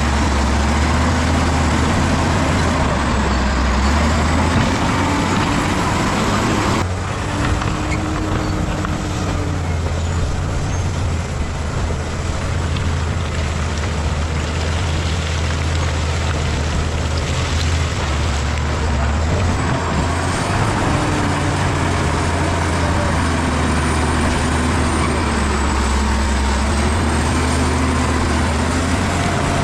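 Bulldozer's diesel engine running steadily as the machine works, its pitch wavering slightly; the sound changes abruptly about seven seconds in.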